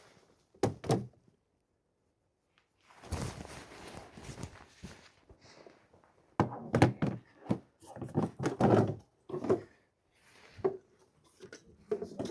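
A series of dull thunks and knocks from battery-powered snow equipment and its batteries being handled, with a couple of seconds of scuffing noise between them.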